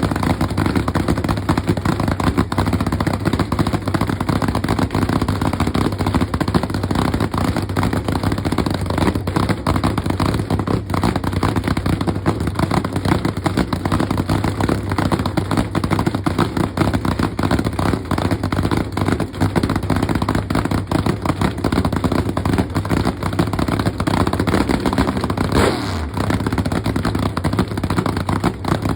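Hemi engine running steadily and loud, with a brief dip and drop in pitch near the end.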